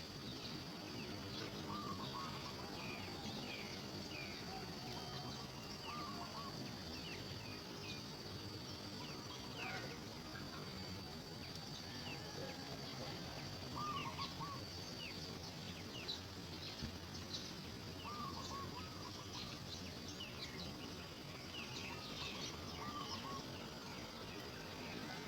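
Birds calling: many short high chirps, and a lower repeated call phrase every few seconds. Under them runs a steady high-pitched insect drone.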